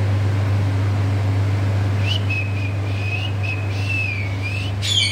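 Pet parrot whistling one long, slightly wavering high note, starting about two seconds in and lasting about three seconds, then breaking into a harsh squawk right at the end.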